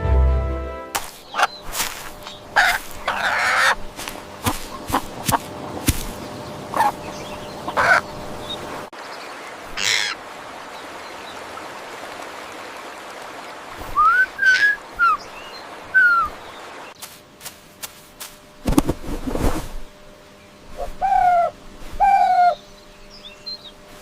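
Birds calling: a run of sharp clicks and rustles like wing flaps, then short arched chirps, a loud burst, and two short harsh calls near the end.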